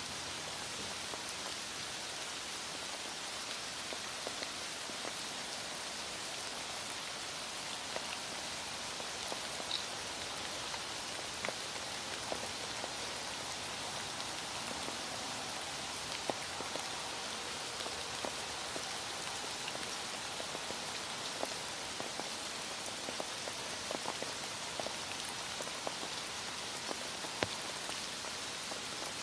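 Heavy rain falling steadily, a continuous hiss with scattered drops and drips pattering on a surface.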